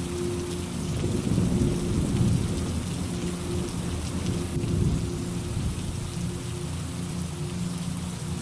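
Steady rain falling, with a roll of thunder rumbling low from about a second in, swelling twice and fading out after about five seconds.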